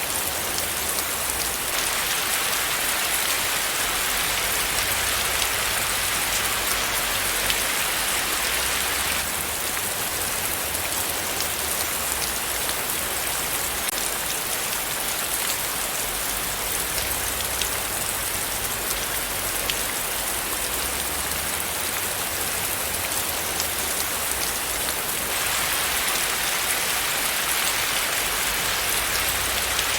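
Steady rain falling on a hard surface: a constant hiss dotted with many separate drop impacts. Its tone shifts suddenly a few times, about two, nine and twenty-five seconds in.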